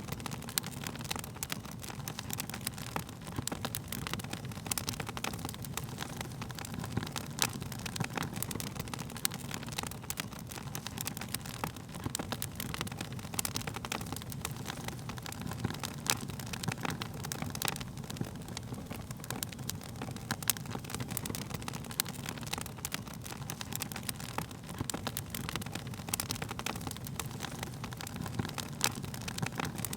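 Wood fire crackling: many irregular sharp pops and snaps over a steady low rumble.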